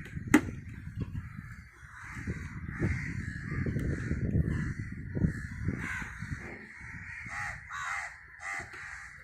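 Crows cawing repeatedly, with three distinct caws near the end. Over this there is low knocking and rubbing from handling, with one sharp click about half a second in.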